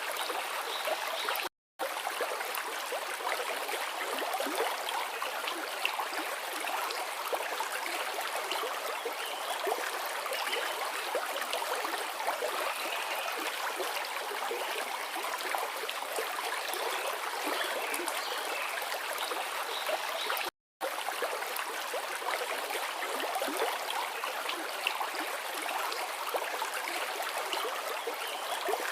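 Forest river flowing steadily: a dense, even rush of running water with a busy texture of small splashes and gurgles. It cuts out to silence for a split second twice, once near the start and once about two-thirds of the way through.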